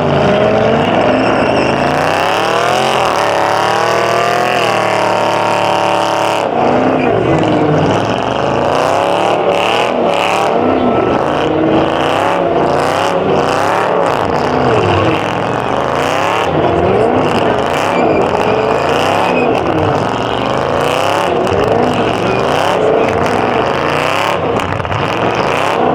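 Muscle-car engines revving hard, their pitch sweeping up and down over and over, with one engine held at a steady high rev for a few seconds near the start. Tyre squeal from burnouts runs underneath.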